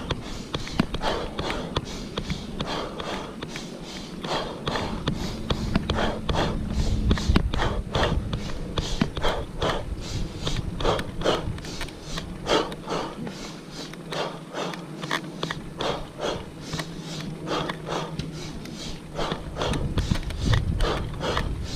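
Cyclist breathing hard from the effort of a steep uphill climb: rapid, irregular puffs of breath about one to two a second, over a low rumble.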